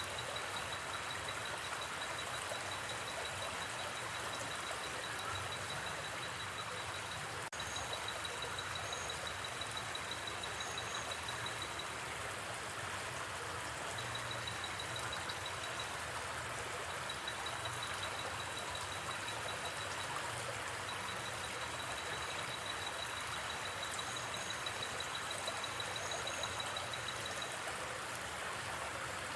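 Steady rush of a gently flowing river, with an insect trilling on one high pitch in long stretches that stop and start. There is a single sharp pop from the campfire about seven and a half seconds in.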